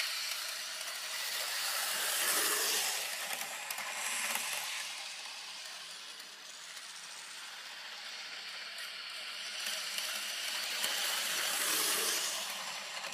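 Garden-scale model train running on outdoor track, a rattling, whirring noise that swells twice, about two seconds in and again near the end.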